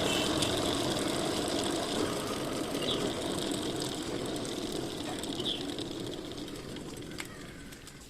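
A motor running steadily with a low rumble, slowly fading away; the high-pressure spray has stopped.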